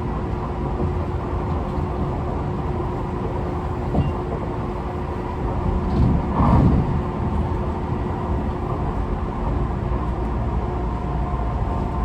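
Running noise inside a Tobu 50090-series commuter train car: steady rumble of the wheels on the rails with a steady motor whine from a car whose traction motors may be of a different type and sound unusual for the class. A louder rumbling surge comes about six seconds in.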